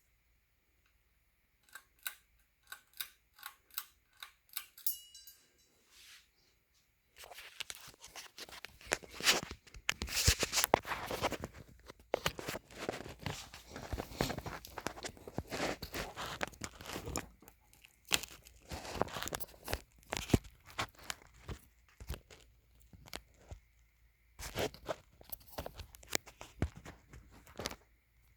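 Close handling noise: a run of sharp clicks with a little ringing, then from about seven seconds in, dense irregular crinkling and crunching, like wrapping being crumpled or torn.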